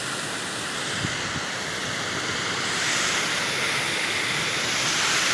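Water rushing through a breach in a small canal's bank: a steady hiss that swells about three seconds in.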